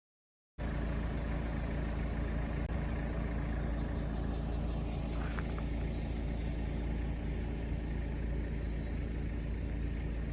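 Camper van's engine running steadily with a low, even rumble, starting about half a second in.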